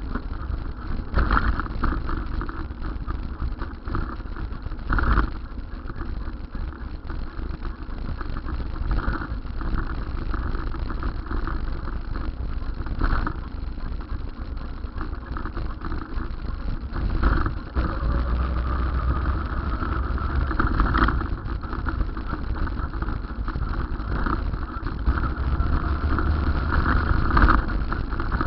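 Steady vehicle and road noise heard on the move: a continuous low rumble with traffic-like engine sound and a few brief loud knocks.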